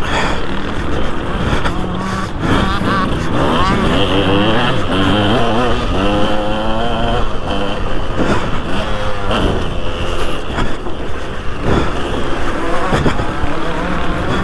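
2003 KTM 200 SX single-cylinder two-stroke motocross engine revving hard and shutting off over and over, its pitch rising and falling, over steady wind rush.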